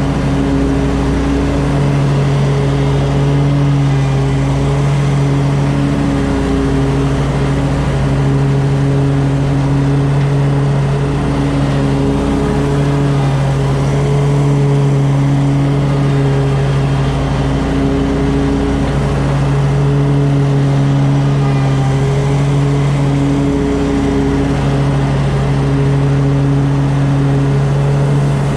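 An engine running at a steady speed, a constant hum with a slight regular waver every few seconds.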